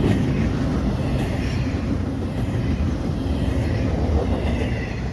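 Fast intermodal freight train passing: a steady rumble of its cars on the rails, slowly fading toward the end.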